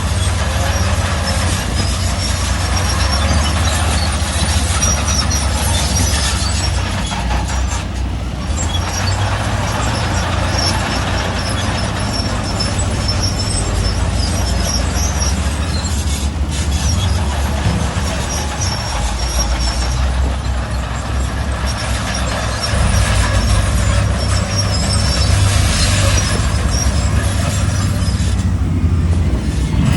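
Heavy earthmoving machinery at work: a deep, steady diesel engine rumble with metallic clatter and faint high squeaks.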